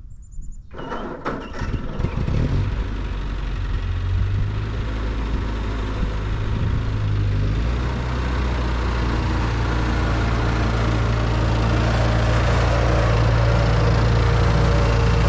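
Ford 9N/2N tractor's four-cylinder flathead engine catching and starting about a second in, after stalling on a nearly empty gas tank, then running steadily and growing louder over the following seconds.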